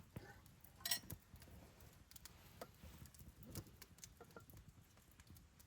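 Faint, scattered crackles and pops of burning firewood, with one sharper pop about a second in.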